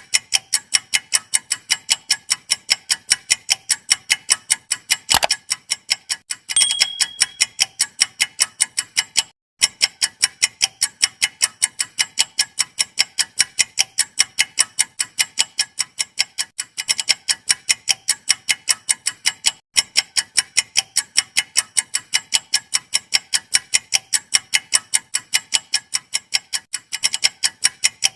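Clock ticking sound effect, rapid and evenly spaced, as used for a quiz countdown timer. It breaks off briefly twice, and a short high tone sounds about six and a half seconds in.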